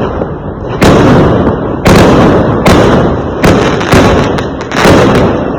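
Fireworks going off in quick succession: about six loud bangs, roughly one a second, each a sharp crack that trails off into a rumble before the next.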